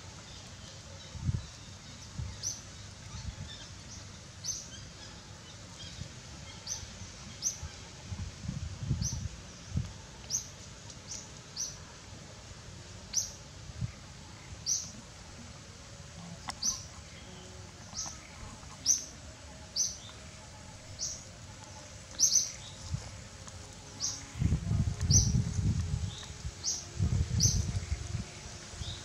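A bird calling with a short high chirp, repeated about once a second. Bursts of low rumbling come in near the end.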